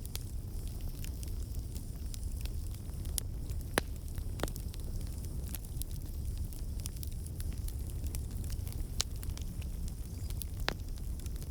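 Campfire burning with a steady low rumble, and wood crackling and popping in sharp, irregular snaps.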